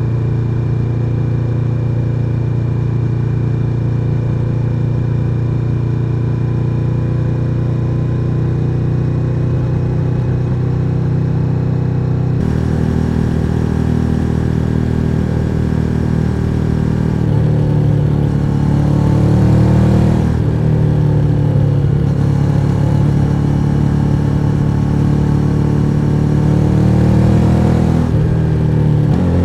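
Suzuki SV1000N's 90-degree V-twin engine, heard from on board the motorcycle: it runs at a steady, low, even pitch for about twelve seconds, then the revs climb as it accelerates, dropping back at a gear change about twenty seconds in and again near the end.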